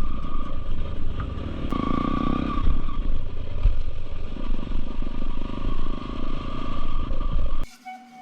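Motorcycle engine running as it rides over a rough, muddy off-road trail, with clattering and rattling from the bumps. The sound cuts off suddenly near the end.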